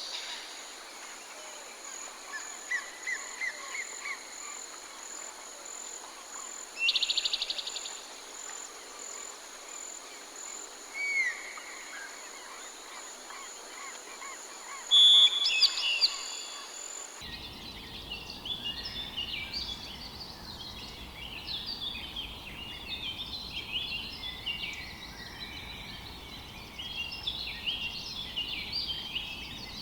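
Forest birds calling. For the first half, separate calls (a short run of notes, a loud buzzy trill, single sliding notes) ring out over a steady high insect buzz. About halfway through, the sound switches abruptly to a dense chorus of many small birds chirping at once, over a low rumble.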